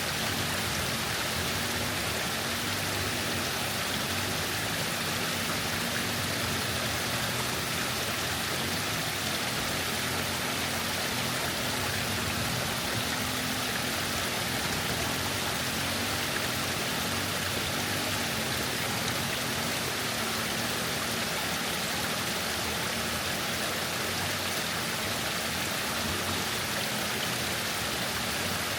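Waterfall rushing steadily, an even, unbroken wash of water noise.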